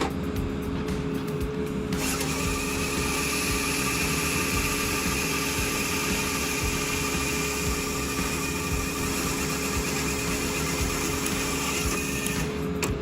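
A woodworking machine running with a steady whirring hiss that starts about two seconds in and cuts off near the end, over a constant low hum.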